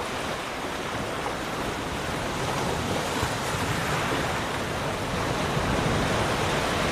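Ocean surf in a continuous rush of breaking and washing waves, swelling a little louder near the end.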